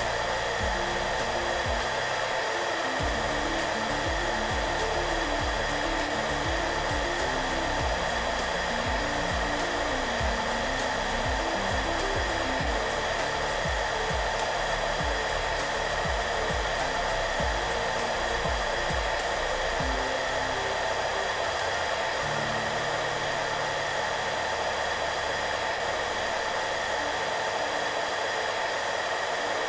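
Hairdryer blowing with a steady even rush of air, under soft background music whose low notes fade out near the end.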